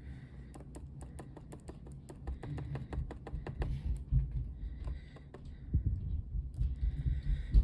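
Rapid small clicks and taps, mixed with a few low knocks, easing off briefly about two-thirds of the way through before starting again.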